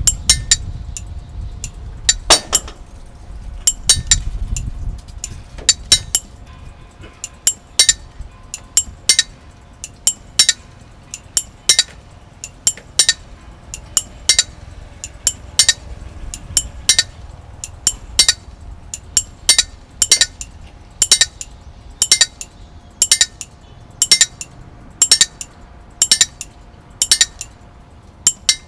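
Sharp, high clinks of small hard objects struck together, coming in quick pairs and triplets about once a second. A faint steady tone runs underneath, and there is a low rumble in the first few seconds.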